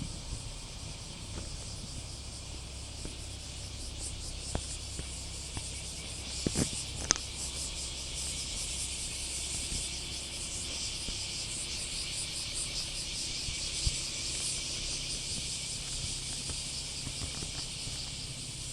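Chorus of cicadas buzzing steadily, a dense high-pitched drone with a fast fine pulsing, over a low background rumble. A few sharp knocks sound about six to seven seconds in.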